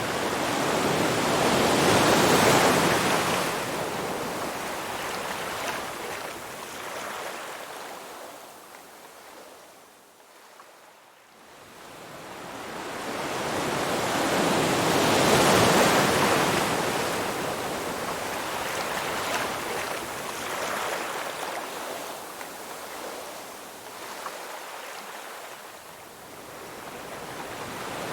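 Ocean waves on a shore: two waves break and wash in about thirteen seconds apart, each rising to a loud rush and then ebbing away to a quieter lull.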